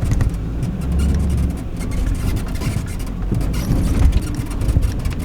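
Camper van's engine running at low speed as it drives on a wet backcountry road, with tyre and road noise and scattered small ticks.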